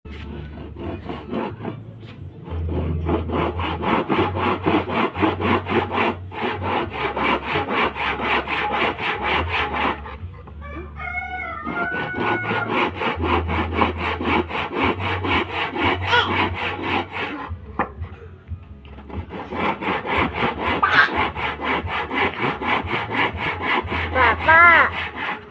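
A manual hand saw worked back and forth against wood in rapid, even strokes, rasping over the surface. The strokes stop briefly twice, about ten and eighteen seconds in.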